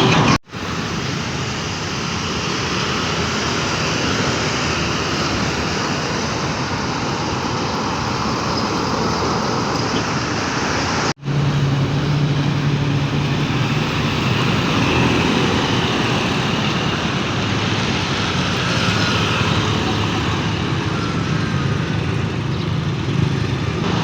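Road traffic noise with a truck's diesel engine running, broken twice by brief dropouts at clip changes, about half a second in and about eleven seconds in. After the second break a steady low engine hum stands out under the road noise.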